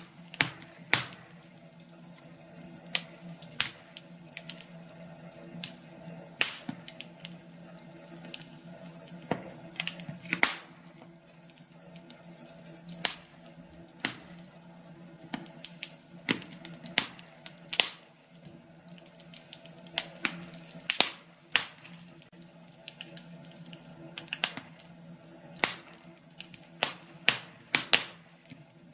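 Wood fire crackling: irregular sharp pops and snaps, often several a second, over a faint steady low hum.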